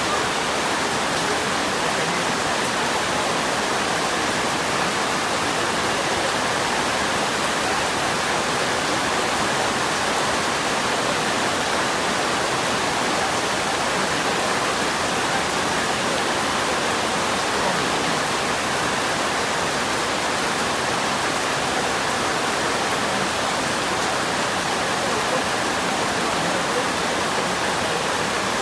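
Steady, unbroken rush of flowing water, like a stream or small waterfall.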